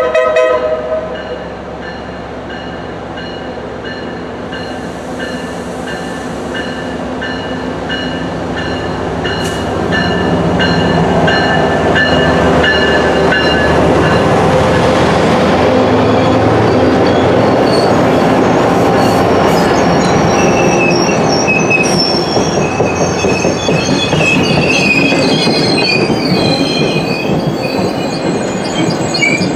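MBTA commuter train, a locomotive hauling a four-car bilevel coach set, rolling past close by. Its rumble builds over about ten seconds and stays loud, with high-pitched wheel squeal in the latter part. A brief loud pitched note sounds right at the start.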